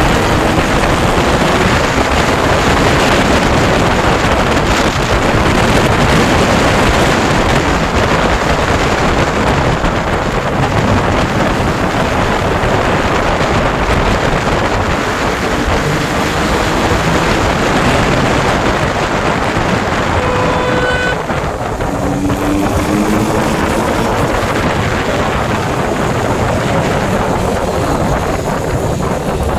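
Motorcycle engines running at road speed, their exhaust note partly buried under heavy wind noise on the microphone, with engine pitch glides as the bikes change speed. A brief steady beep a little past two-thirds of the way through.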